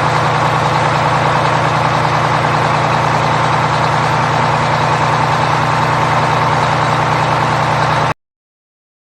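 Truck engine running steadily at idle, then cutting off abruptly about eight seconds in to dead silence.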